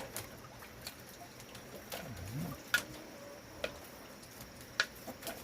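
A few sharp clicks scattered through, with one soft, low cooing bird call about two seconds in.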